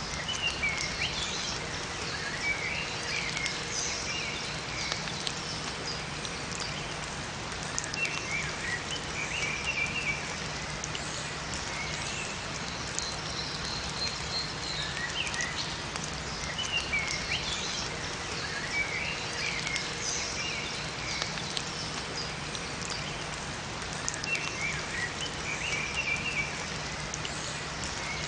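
Steady rain falling in a forest, with small songbirds chirping in short clusters of quick high notes every several seconds.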